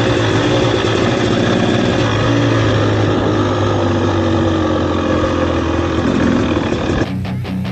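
Dirt bike engine running at a fairly steady speed, with a short rise and fall in pitch about six seconds in. Guitar music cuts in abruptly near the end.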